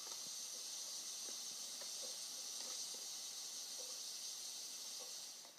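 Drip coffee maker brewing: a steady hiss of steam with a few faint gurgles, cutting off abruptly near the end.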